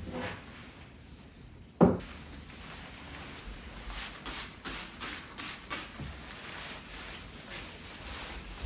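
Household objects being handled: one sharp knock a little under two seconds in, then a quick run of light clicks and taps.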